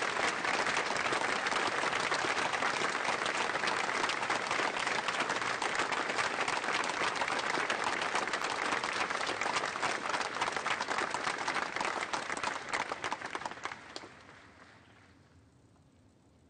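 Audience applauding with sustained clapping, which dies away about fourteen seconds in.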